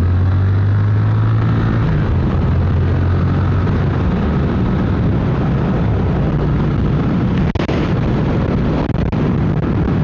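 Triumph Speed Twin 1200's parallel-twin engine running at a steady cruising pace, with heavy wind rush and road noise over the rider's microphone. The engine note is smooth and steady for about two seconds, then turns rougher as the wind noise rises.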